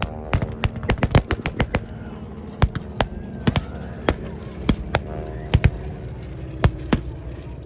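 Blank gunfire from small arms in a mock battle: a rapid string of about ten shots in the first two seconds, then scattered single shots every half second to a second.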